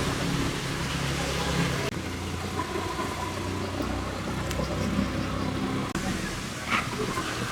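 Car engine running steadily at low revs, with abrupt changes in the sound about two and six seconds in.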